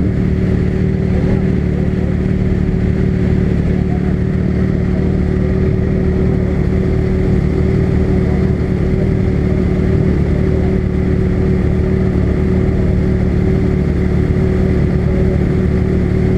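Honda CB300 motorcycle's single-cylinder engine running at a steady pace while riding, an even drone with no big revs.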